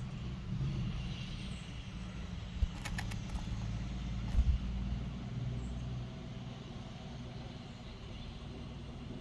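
A motor vehicle's engine running nearby, a steady low rumble that fades slightly toward the end. A couple of dull thumps and a quick run of sharp clicks come a few seconds in.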